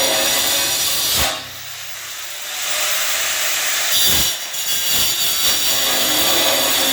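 Power tool cutting under load, a steady harsh hiss. It drops away for about a second just after the start and then picks up again, with a few knocks in between.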